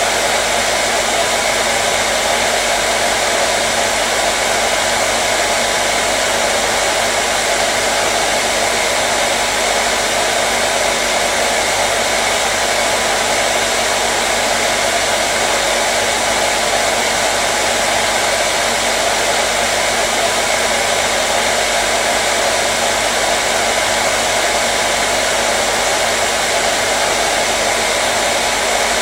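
Hair dryer running steadily: a constant blowing whoosh with a faint steady motor hum underneath.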